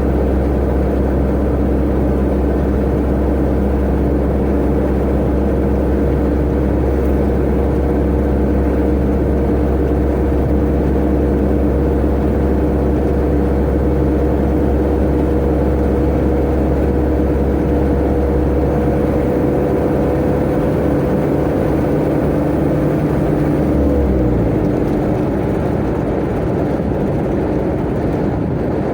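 Tata Ace mini truck's turbo engine running steadily at speed, with road rumble. A few seconds before the end the engine note drops sharply as the revs fall.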